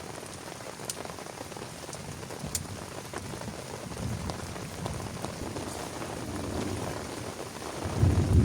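Heavy rain falling steadily, with scattered sharp drop ticks, and a deep low rumble swelling near the end.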